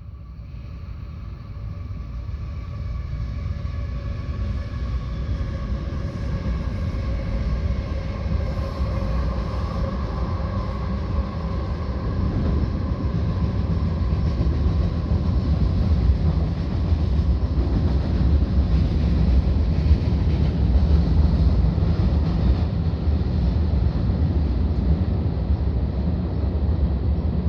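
Norfolk Southern train crossing the P&LE railroad bridge. The diesel locomotives' engine drone grows louder as they approach, its tones slowly falling in pitch, and gives way about halfway through to a steady heavy rumble of rail cars rolling over the bridge.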